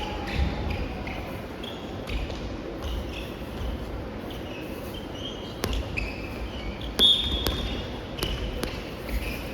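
Soft volleyball rally in a large hall: sharp hits of the light rubber ball being struck, several in the second half, with low thuds and short high squeaks from play on the court.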